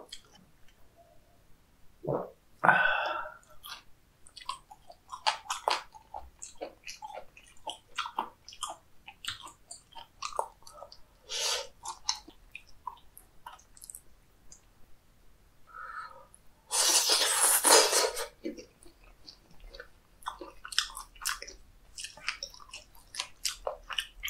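Close-miked wet chewing of raw cuttlefish sashimi: a steady run of small sticky mouth clicks and smacks. Louder noisy bursts stand out, the loudest about a second long, roughly two-thirds of the way through.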